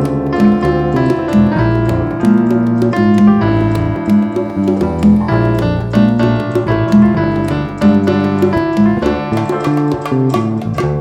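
Band music with no singing: a piano playing a run of chords and melody over a moving bass line, with light percussion strokes keeping time.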